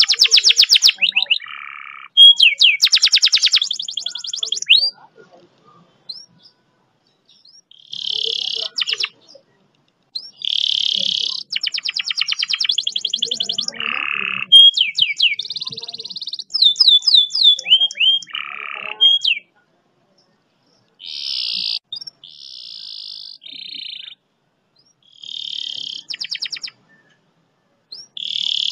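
Domestic canary singing in separate phrases: long fast trills ('rolls') of rapidly repeated high notes alternating with series of sweeping whistled notes, with brief pauses between phrases.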